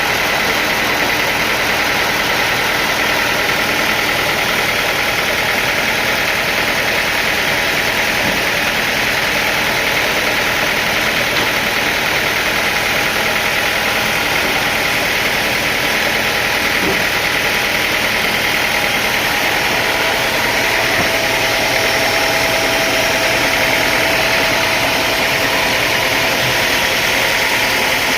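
Sawmill machinery running steadily: a loud, constant engine-like drone that does not change throughout.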